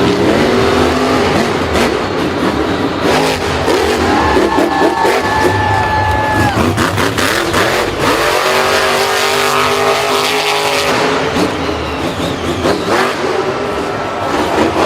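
Several vehicle engines revving and racing, their pitches rising and falling, with frequent knocks and clatter.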